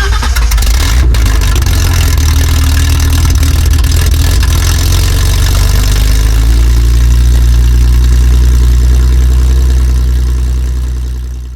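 V12 engine in a BMW E30 running steadily just after its first start, settling into an even idle about two-thirds of the way through, then fading out at the end.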